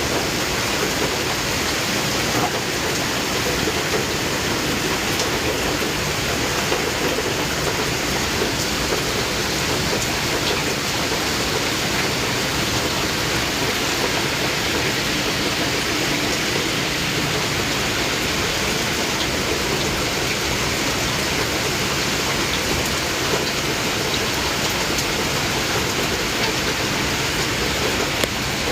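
Heavy rain falling in a steady downpour, a dense hiss with a few sharp drop ticks.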